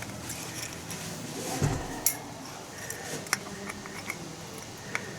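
Hand tools and small metal parts clinking and tapping during scooter repair work: scattered light metallic clicks, with one dull knock about one and a half seconds in.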